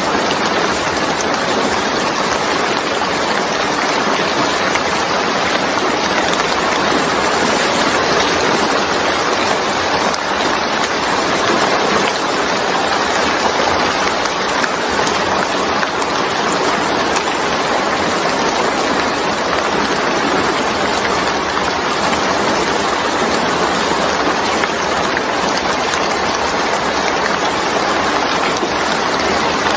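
Steady rain falling, an even rushing hiss that neither builds nor fades.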